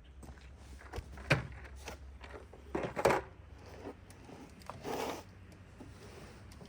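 A few short clicks and scrapes of a hand tool working at the plastic safety tab of a fuel-injector electrical connector, prying it sideways and up.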